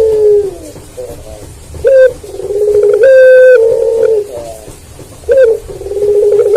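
A puter pelung, a Barbary dove bred for its long voice, cooing over and over. Each long coo steps up in pitch, holds, then trails down, and a short clipped note falls between coos, the pattern repeating about every three and a half seconds.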